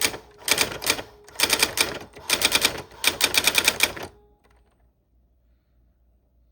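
Old typewriter being typed on: quick runs of key strikes in bursts with short pauses between words, stopping abruptly about four seconds in.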